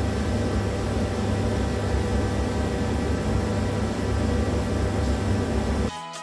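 Steady machine hum with a hiss, holding one level, cut off abruptly near the end as music starts.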